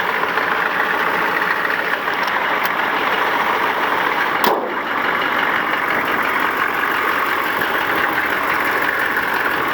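1993 Chevy 6.5-litre turbo diesel V8 idling steadily while it warms up after a cold start. A single sharp click sounds about four and a half seconds in.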